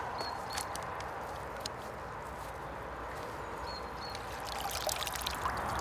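Water sloshing and trickling as a common carp is slipped back into the lake from the net, with a cluster of small splashes and clicks in the last second and a half.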